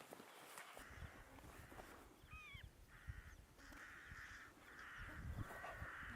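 Distant crows cawing faintly: a run of about four harsh caws from about three seconds in, with a short, higher, curving bird call just before them.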